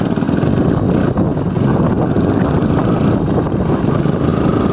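Motorcycle running along a road, its engine mixed with wind rumbling on the microphone in a loud, steady noise.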